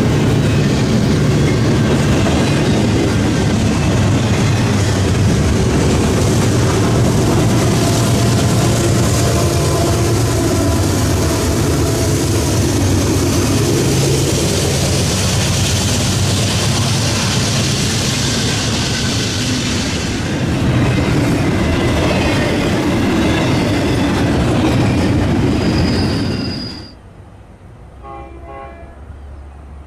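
Double-stack intermodal freight train passing close by, a loud, continuous rumble with wheel clatter on the rails and a distributed-power diesel locomotive going by mid-train. A brief high wheel squeal comes near the end, then the sound drops suddenly to a much quieter scene with faint repeated tones.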